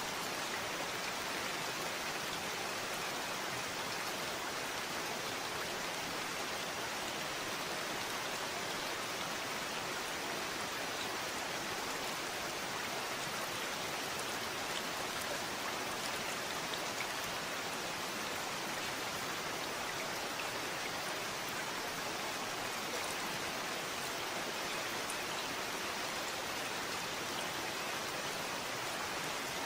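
Steady rain falling, a constant patter of drops on a surface with no breaks or changes in intensity.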